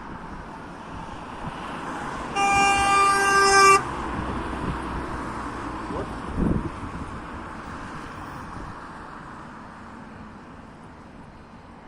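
A single horn blast lasting about a second and a half, one steady tone, over the steady rumble of a passing vehicle that slowly fades. The people filming take the blast as meant to scare them.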